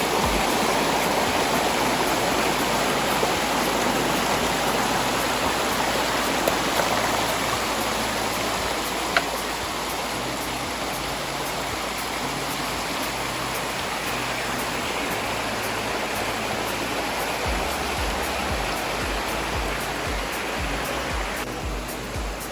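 Mountain river water rushing over rocks: a steady, even hiss of fast-flowing water.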